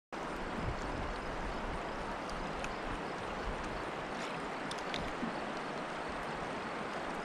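Steady rush of river water flowing around a kayak, with a few faint clicks.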